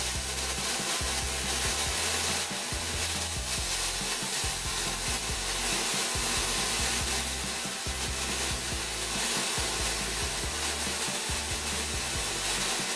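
Drill-driven homemade disc sander spinning with a steel axe head pressed against its disc, a steady abrasive rubbing hiss over the drill's high motor whine. A low rumble comes and goes every second or so as the grinding contact varies.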